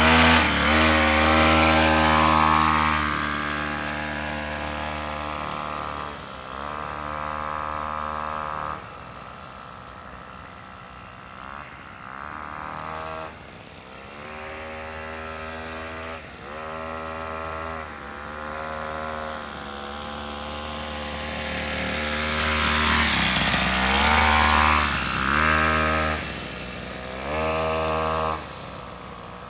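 Small dirt bike engine revving up and easing off again and again as it is ridden. It is loudest near the start and again about three quarters of the way through, and fainter in between as it moves farther off.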